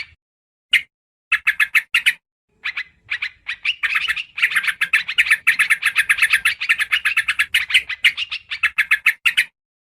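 Yellow-vented bulbul (trucukan) calling: rapid runs of short chattering notes, about ten a second, in bursts broken by abrupt dead-silent gaps, the longest run lasting several seconds. It is a looped lure-call recording used for trapping the species.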